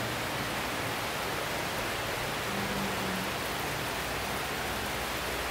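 Steady hiss of rain falling, with a faint low tone coming in briefly about halfway through.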